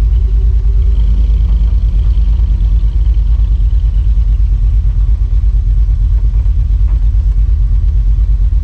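A car's engine rumbling low and steady.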